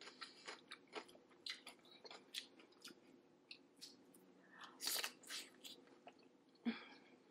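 A person eating close to the microphone: soft chewing with wet mouth clicks and smacks. There is a louder burst about five seconds in and another near the end.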